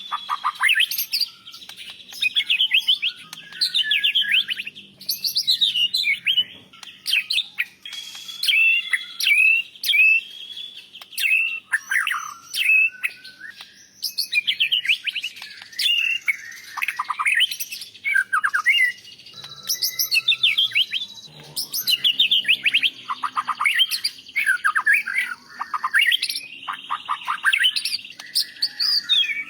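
White-rumped shama (murai batu) singing: a loud, varied song of short, rapid phrases of chirps, trills and whistles, one after another with brief pauses.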